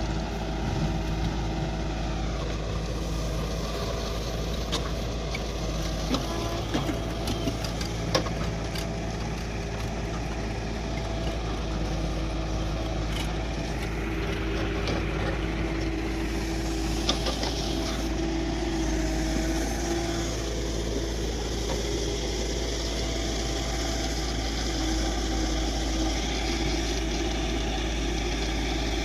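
Diesel engines of a JCB backhoe loader and a Mahindra Arjun 605 DLX tractor running during soil loading, the engine note shifting up and down a few times. Scattered sharp knocks and clatter come through, mostly in the first third.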